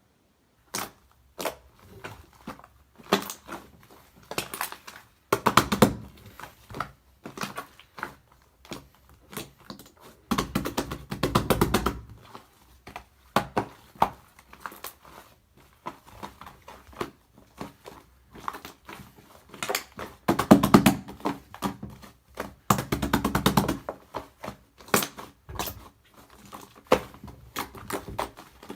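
Close-up handling of a shaving-foam 'cream cake': scattered light taps and knocks, with several longer stretches of dense, squishy crackling.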